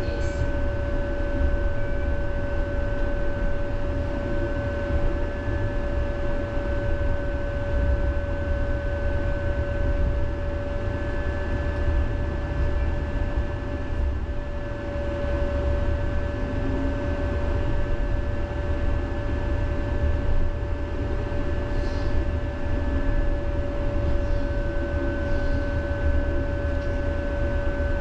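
Tram running, heard from inside the car: a steady low rumble with a constant two-note electrical hum over it, and brief faint hisses a little past the middle.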